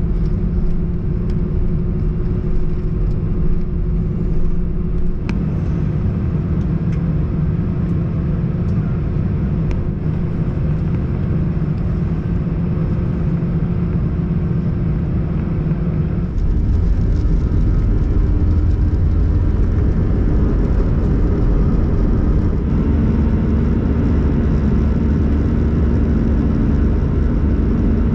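Airbus A321-111 jet engines heard from inside the passenger cabin: a steady rumble with a few steady low tones. It jumps abruptly louder and changes pitch about 16 seconds in, and the tones shift again around 23 seconds in.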